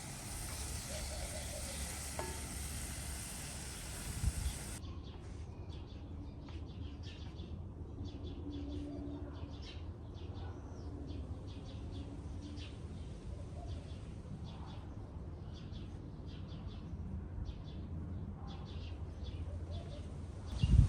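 Food frying in hot oil in a pan, sizzling. The sizzle is a dense hiss at first; about five seconds in it changes abruptly to sparser crackles. There is a short knock about four seconds in and a louder bump right at the end.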